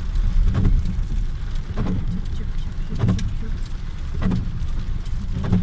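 Car heard from inside the cabin: a steady engine and tyre rumble on a wet road, with windscreen wipers sweeping in a regular beat of about one stroke every second and a quarter.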